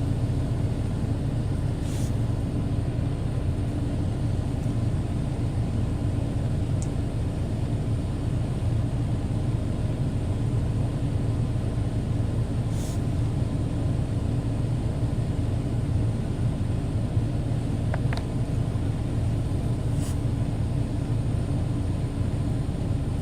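Steady low rumble of the truck's running engine heard from inside the cab, with a few faint clicks.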